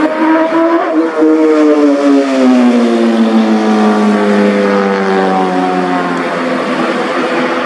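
Superbike engine and exhaust running loud. Its pitch drops over about two seconds, then holds steady for a few seconds.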